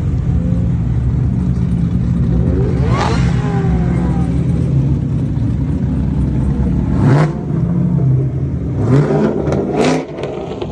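Car engines running as cars drive past, with a steady low engine drone and two sharp revs in the second half.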